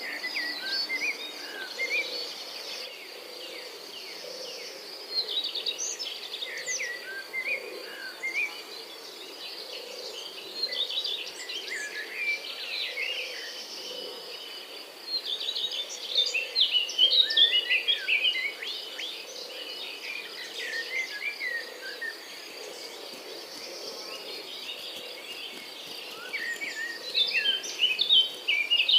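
Outdoor nature ambience: a steady high insect trill, with songbirds chirping in clusters of quick notes that come and go several times.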